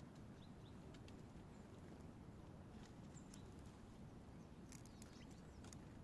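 A red squirrel tapping its paws on wood: faint, scattered sharp taps, a few of them bunched close together late on, the sign of an agitated, indignant squirrel.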